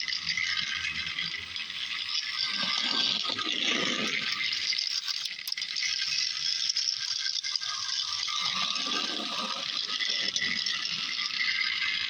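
Battery-powered motorized toy Gordon engine running along its plastic track pulling its tender and express coach, a steady whirring of its small motor and wheels.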